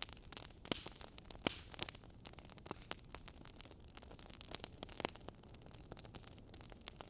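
Wood fire crackling in a fireplace: irregular snaps and pops, a few louder than the rest, over a soft steady hiss.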